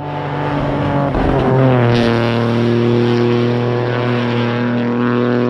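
Turbocharged rally car's engine at full throttle as it comes on and goes past at speed. The note grows louder, drops in pitch about a second and a half in with a short crack, then holds a steady, loud high-revving pitch.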